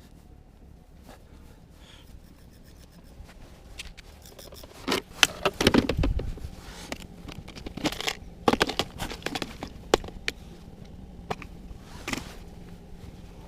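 Close handling noise: irregular scraping, rustling and sharp clicks, starting about four seconds in and loudest around five to six seconds.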